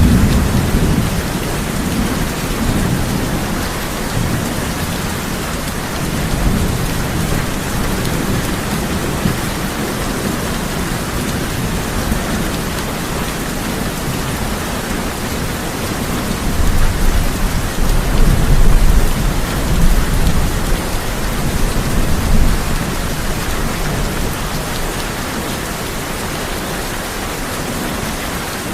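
Steady heavy rain on a tin roof, with thunder rumbling low: a brief roll right at the start and a longer, louder one rolling through the second half, peaking about two-thirds of the way in.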